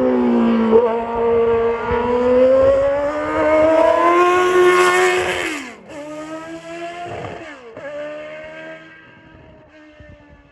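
Formula One car's engine at high revs, its pitch climbing and then dropping sharply at a gear change about six seconds in and again about a second later, before it fades into the distance.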